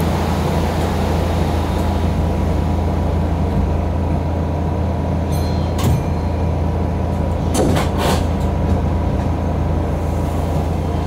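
Steady low hum inside a Keihan electric train standing at a station, with a few brief sharp sounds about halfway through and again about two-thirds of the way through.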